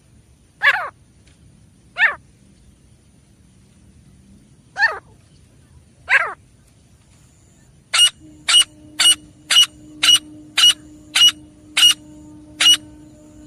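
Grey francolin calling: four short separate calls, each dropping steeply in pitch, then about 8 seconds in a fast run of about ten sharp notes, roughly two a second.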